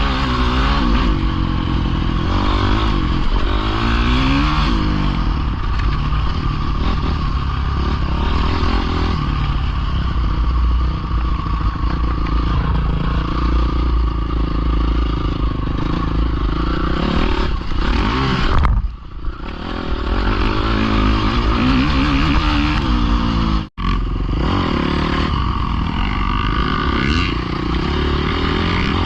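Dirt bike engine running hard, revving up and falling back again and again as it is ridden. The sound dips briefly about two-thirds of the way through and cuts out for an instant a few seconds later.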